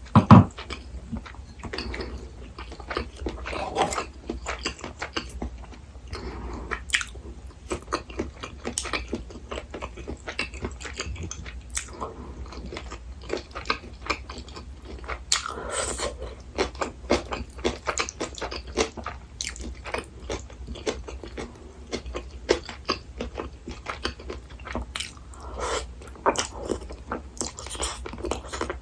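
Close-miked eating sounds from a meal of cream udon and fried-tofu sushi: chewing and biting in an irregular run of small clicks and smacks. There is a louder knock right at the start.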